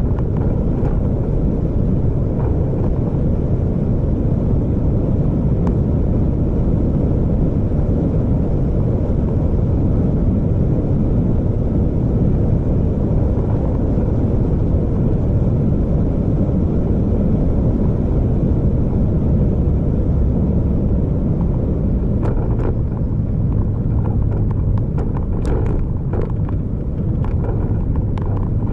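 Vehicle driving: a steady low rumble of engine and road noise, with a few short clicks and knocks near the end.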